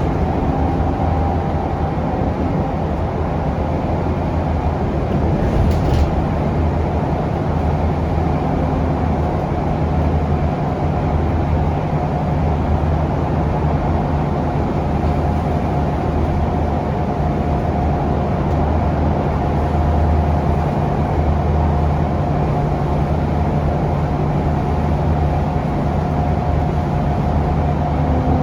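Scania K360UA articulated bus heard from inside the cabin while it drives, its Scania DC9 five-cylinder diesel running steadily under road noise. A faint steady whine comes in more strongly in the second half, and there is one brief rattle about six seconds in.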